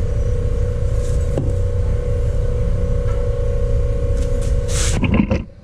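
A steady machine hum over a low rumble, with a short scrape and a few clicks near the end as the hum cuts off suddenly.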